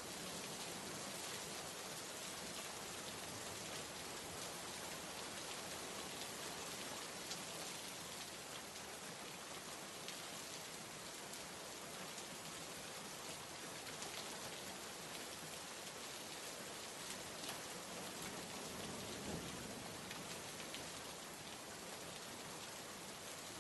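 Steady rain falling: an even hiss with a light patter of scattered drops.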